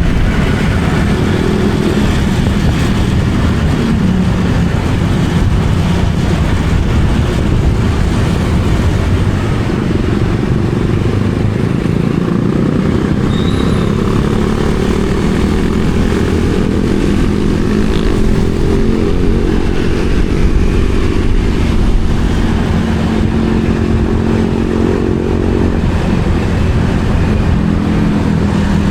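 Motorcycle engine running while riding, with a steady low rumble throughout. The engine's pitch rises and falls with the throttle, most clearly in the second half.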